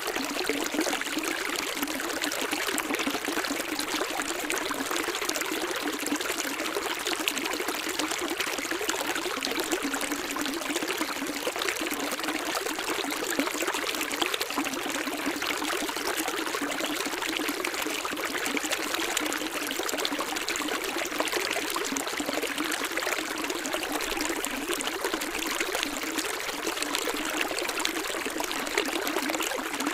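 Running water flowing steadily, a light even splashing rush with no deep rumble.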